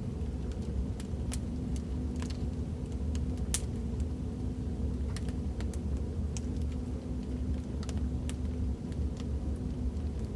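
Fireplace crackling sound effect: a steady low rumble of a burning fire with scattered sharp crackles and pops at irregular moments.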